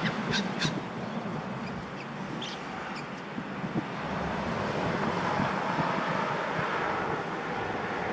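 A train's rolling noise that swells gradually from about four seconds in. A few crow caws come near the start, and fainter calls follow a couple of seconds later.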